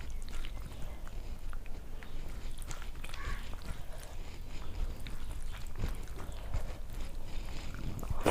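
Close-up eating sounds: a person chewing and biting food, with many small wet mouth clicks and smacks scattered throughout.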